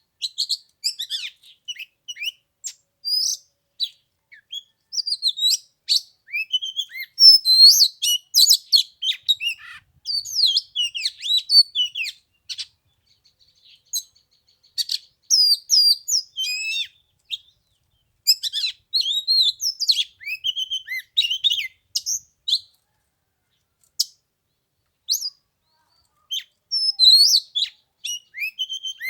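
Oriental magpie-robin singing: fast, varied whistled phrases and chirps in bursts with short pauses, broken by a longer lull about halfway through.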